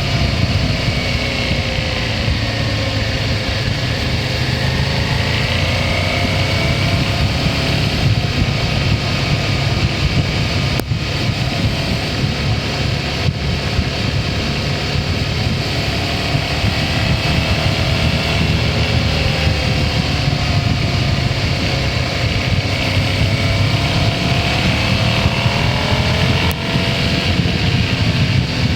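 Motorcycle engine running while riding, its pitch slowly falling and rising as the speed changes, over a steady low wind rumble.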